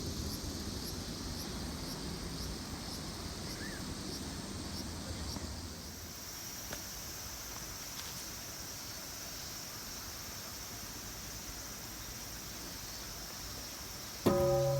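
Insects chirp and a low rumble runs through the first half. About half a second before the end a temple bell is struck once and rings on with a deep, steady hum and higher tones above it.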